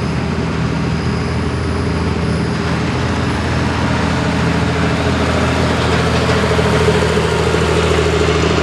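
Super stock diesel 4x4 pulling truck's engine running steadily at low revs, growing slightly louder in the second half.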